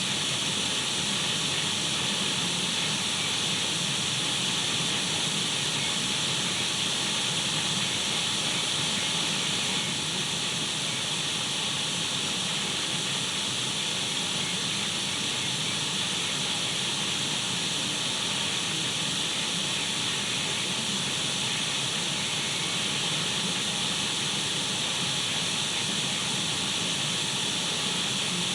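Radio static: a steady, unbroken hiss of white noise, brightest in the upper-middle range.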